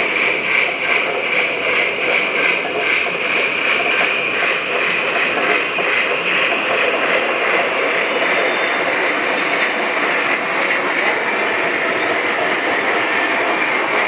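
Lionel O-gauge model trains running on the layout: a steady whir and rumble of wheels and motors on the track, with a rhythmic clicking about three times a second that gives way to a steadier run about halfway through.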